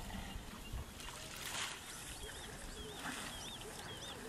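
A bird repeating a short, wavy whistled note about twice a second, starting about halfway through, over a steady outdoor background hiss.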